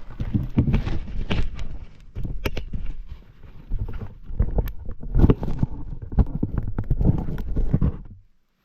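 Irregular sharp knocks and cracks over a heavy low rumble, uneven in timing, cutting off abruptly near the end.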